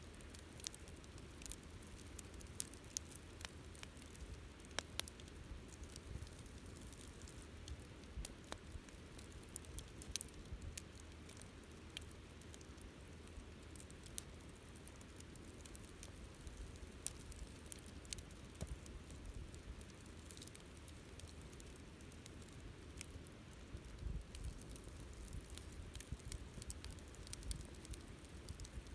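Wood bonfire crackling: a dense, irregular run of small snaps and pops over a low steady rumble of the burning fire, with a few sharper pops standing out.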